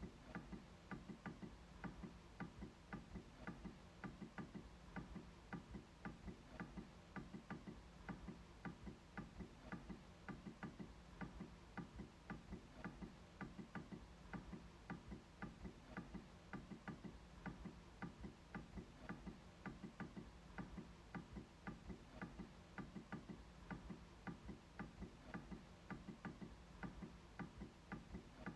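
MacBook trackpad being clicked over and over: faint, short clicks at an even pace of a few per second.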